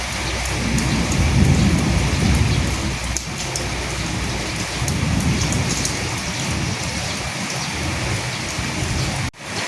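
Steady rain pattering, with low rolling thunder swelling twice. The sound cuts out for an instant near the end, then the rain carries on with less low rumble.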